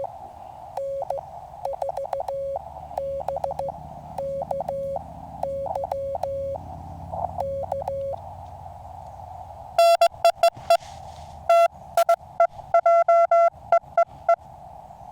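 Morse code tones from a QCX mini QRP CW transceiver over narrow-filtered band hiss. A moderate keyed signal runs for about eight seconds. About ten seconds in, a much louder station starts sending, its dits and dahs clipped and harsh, loud enough to be hard to copy in the earphones.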